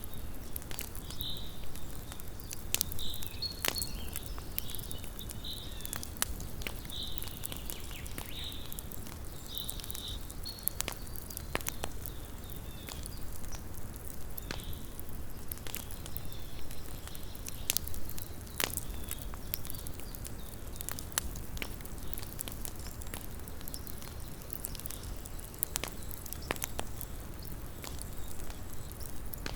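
Small wood campfire crackling, with irregular sharp pops and snaps over a low steady rumble. In roughly the first ten seconds a series of short high chirps repeats about once a second, then stops.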